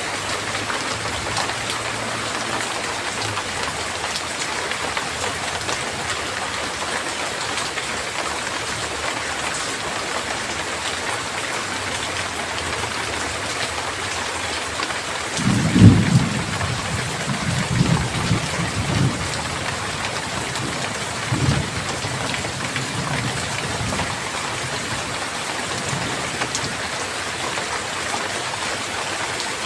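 Steady rain falling, with a loud thunderclap about halfway through that rolls on in low rumbles for several seconds.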